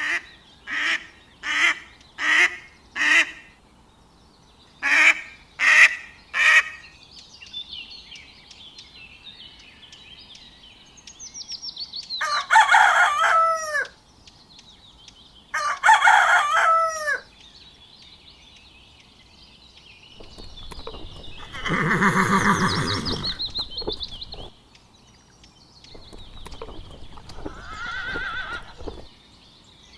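Farmyard animal sounds: a rooster crowing twice, each crow about a second and a half long, with birds chirping throughout. It opens with eight short sharp calls in two groups, and a longer, lower animal call comes about two thirds of the way in, followed by a weaker one.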